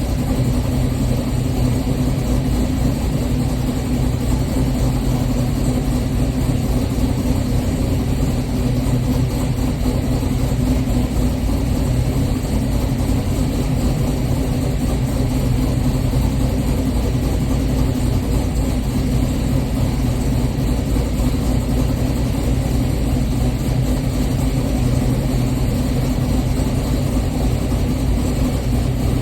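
LS-swapped 6.0-litre V8 in a G-body Oldsmobile Cutlass idling steadily after a cold start, with no revving.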